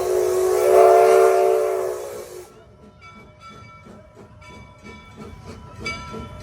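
Locomotive steam whistle blowing one long, loud blast over a breathy hiss, cutting off about two and a half seconds in. A fainter sound with a regular beat follows.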